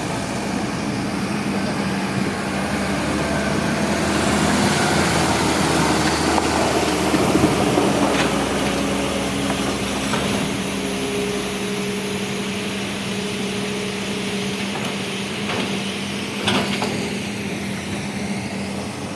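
Heavy diesel engine of the excavator or dump truck running steadily, swelling louder and rougher for several seconds in the middle, with a few sharp knocks in the second half.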